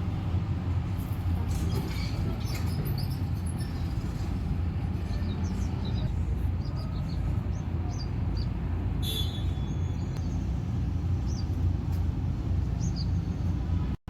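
Small birds chirping in short, high calls, with a brief buzzy trill about nine seconds in, over a steady low rumble.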